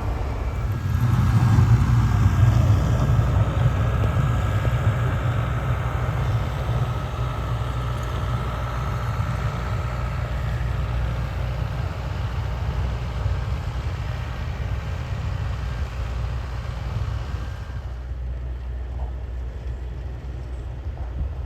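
Snowplow truck engine rumbling, loudest in the first few seconds and then slowly fading, with a steady hiss above it that drops away near the end.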